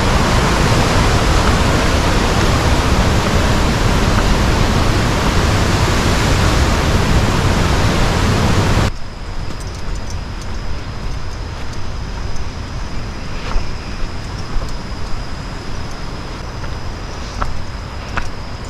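Nungnung Waterfall, a high-volume gusher, sending out a loud, steady rushing roar. About nine seconds in it cuts off abruptly to a much quieter outdoor background with a thin steady high tone and a few faint clicks.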